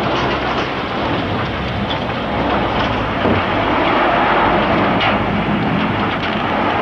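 Tornado and storm wind, a loud steady rushing noise that swells slightly toward the middle, with a few faint knocks in it.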